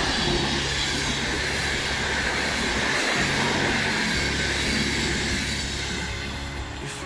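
Express train's passenger coaches rolling past on the track, a loud rushing rumble of wheels that eases as the train moves away. Background music with a bass line plays underneath.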